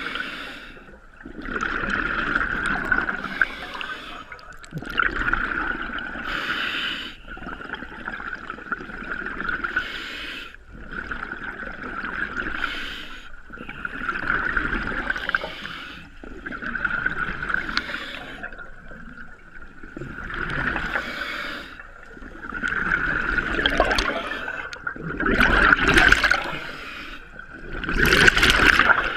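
Scuba diver breathing underwater through a regulator: a hiss on each inhale and a rush of bubbling on each exhale, repeating in a steady rhythm every few seconds. The breaths grow louder near the end.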